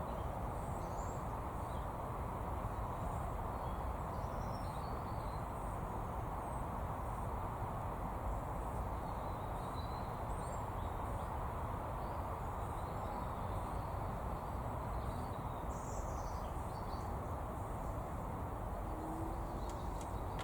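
Steady outdoor background noise, a low even rumble and hiss, with faint, scattered high bird chirps and calls now and then.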